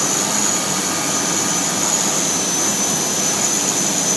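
CNC router spindle cutting a square pocket with a 1/4-inch end mill, about a tenth of an inch deep per pass. It runs loud and steady, with a high whine over a rushing noise.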